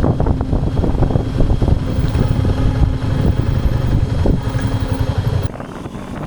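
Royal Enfield Himalayan 450's single-cylinder engine running while the bike is under way. The sound drops off suddenly about five and a half seconds in.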